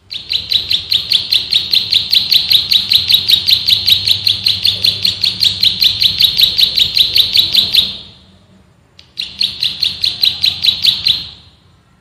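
Plain prinia (prenjak sawah) singing a fast, unbroken run of rapidly repeated high notes, about six a second, for about eight seconds, then after a brief pause a second, shorter run of about two seconds.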